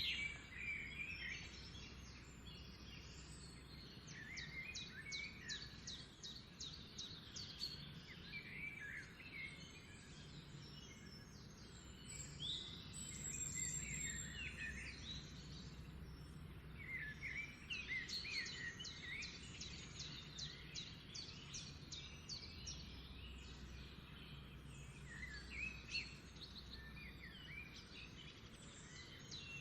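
Songbirds singing in repeated bursts of quick chirps and trills, over a steady low background hum.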